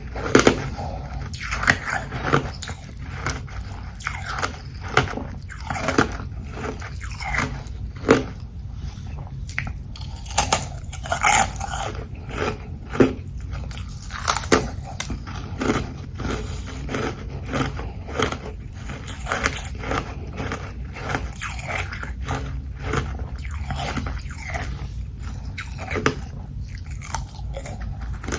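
Close-up biting and chewing of carbonated ice (frozen fizzy water), a run of sharp, irregular crunches throughout.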